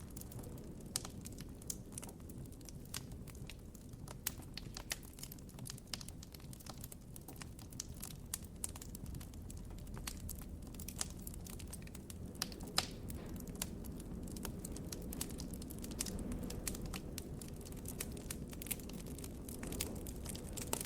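Campfire crackling, with many irregular sharp pops and snaps over a low, steady rumble of the burning fire.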